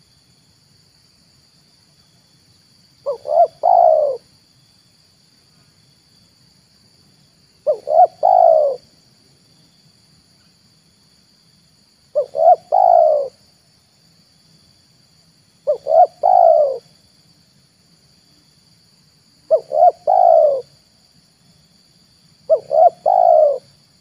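Spotted dove cooing: six calls, each two short notes then a longer rolling coo about a second long, repeated roughly every four seconds. A faint steady high hiss runs underneath.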